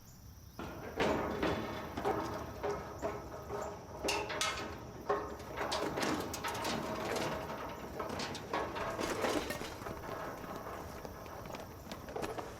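Pots, pans and dishes clattering and knocking together as they are handled and packed, a quick irregular run of clinks and knocks with some ringing.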